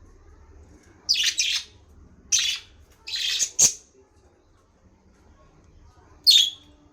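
Pet bird giving short, harsh calls: a quick double call about a second in, two more soon after, and one more near the end. One sharp tap falls among the calls, just past the middle.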